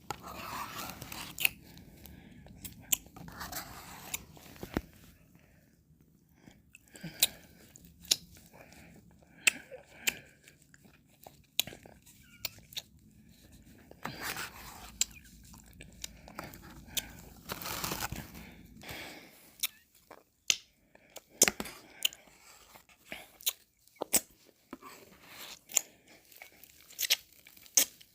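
Close-miked mouth sounds of eating and licking ice cream: irregular wet clicks and smacks of lips and tongue, with several longer slurping stretches and bites.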